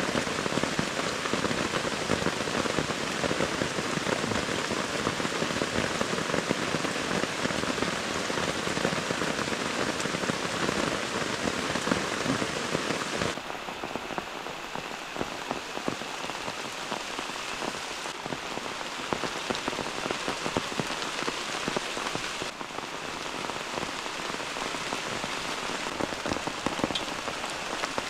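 Heavy rain pouring down in a rainforest storm, a dense steady hiss full of pattering drops. About halfway through it becomes somewhat quieter and thinner.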